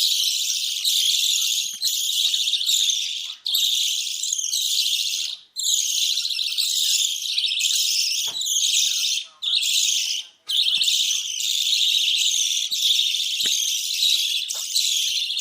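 Budgerigars chattering and warbling in a fast, continuous stream of high chirps, broken by a few brief pauses. It is the kind of budgie chatter played beside a nest box to bring a hen into breeding condition.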